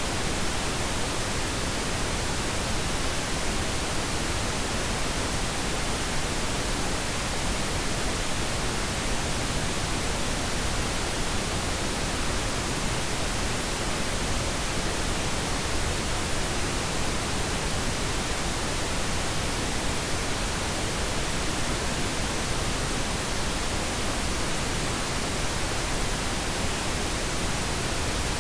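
Steady synthetic pink noise: an even, unchanging hiss across the whole range.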